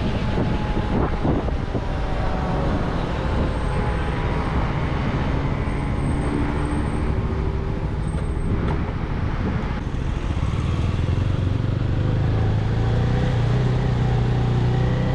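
CFMoto 250NK's single-cylinder engine, on stock exhaust, running on the move. Its pitch rises and falls through the revs, and from about two-thirds of the way in it pulls louder and climbs steadily under acceleration. The engine is new and still being run in.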